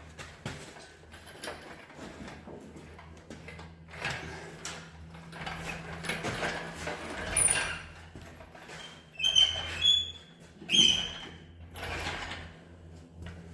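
Intermittent metal knocks, scrapes and short squeaks from hands-on work on the car, the loudest coming in quick succession a little past the middle, over a faint steady hum.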